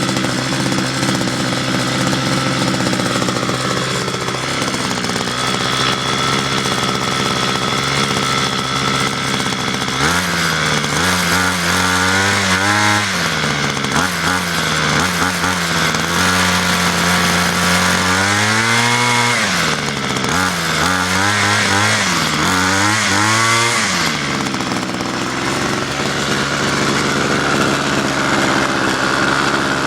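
Ryobi Expand-It string trimmer's small gas engine running at a fairly high idle, then revved up and down several times from about a third of the way in before settling back to a steady idle near the end.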